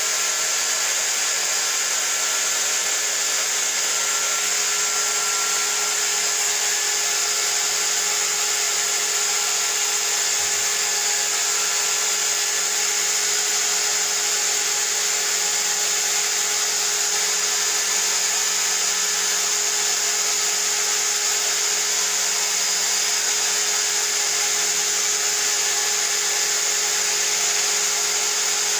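An electric motor on aircon-cleaning equipment runs steadily without a break, with a high hiss and a few steady whining tones over it.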